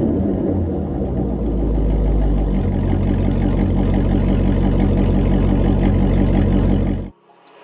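Chevrolet Silverado pickup engine running through a custom equal-length dual X-pipe exhaust, settling to a steady idle after a rev. The sound cuts off abruptly near the end.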